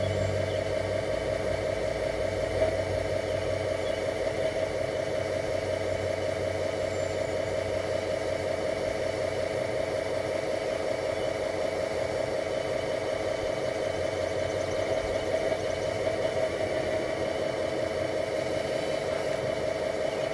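Simulated diesel engine idle played through a small Bluetooth speaker by an RC truck's ESP32 sound module, running steadily with an even rough pulse and no revving.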